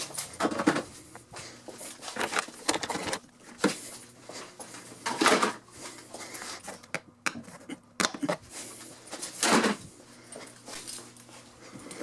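Car interior being taken apart by hand: irregular clicks, rustling and knocks as parts are pried loose and handled, with three louder knocks about half a second, five seconds and nine and a half seconds in.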